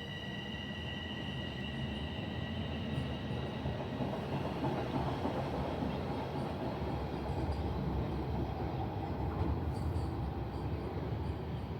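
A TTC rail transit train running on the track: a dense rumble that builds over the first few seconds and then holds steady, with a faint high whine that fades out within the first couple of seconds.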